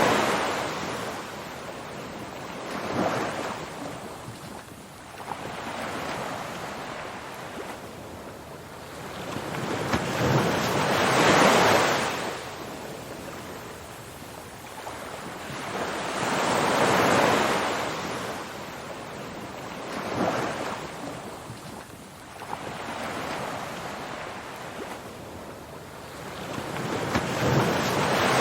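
Ocean surf: waves breaking and washing in, each swelling and fading away every few seconds, the biggest ones coming about eleven seconds in, about seventeen seconds in, and near the end.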